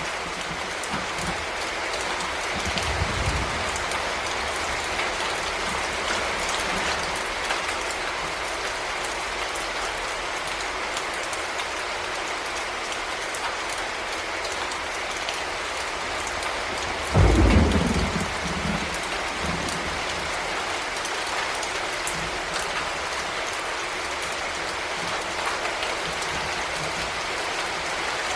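Heavy rain falling steadily, with a low roll of thunder about three seconds in and a sudden, louder thunderclap a little past halfway that rumbles away over a second or two.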